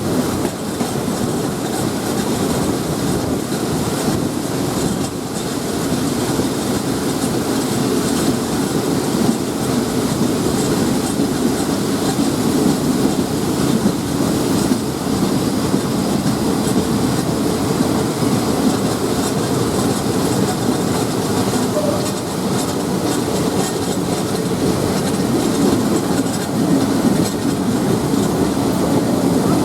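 State Railway of Thailand passenger train running on the rails, a steady rumble of wheels and carriages with some clickety-clack and light wheel squeal.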